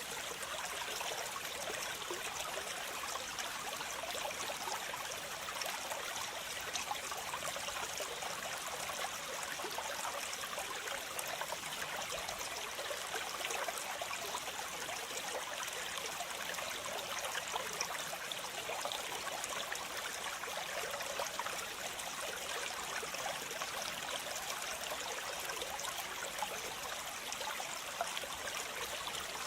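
Waterfall: a steady rush of falling and splashing water, with no change in level.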